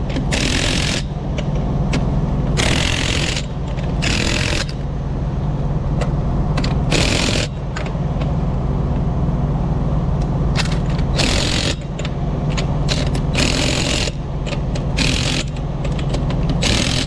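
A hand socket ratchet working the axle flange nuts around the hub, in short bursts of clicking about nine times. A steady low engine hum runs underneath.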